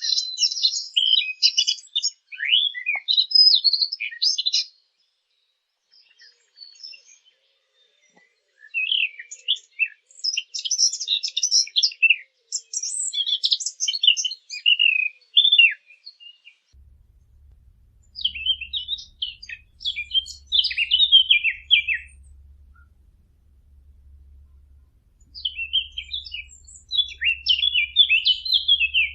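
Birds chirping and twittering in quick, high-pitched phrases of a few seconds each, broken by short pauses.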